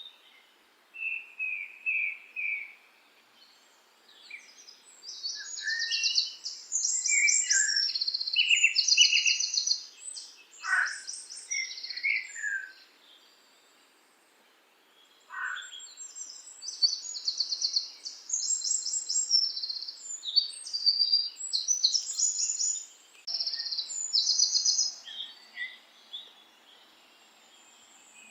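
Songbirds singing: phrases of rapid high trills and chirps, with quiet gaps of a second or two between them.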